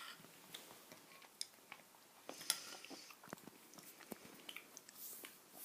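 Faint, irregular small clicks and ticks, a little louder about halfway through.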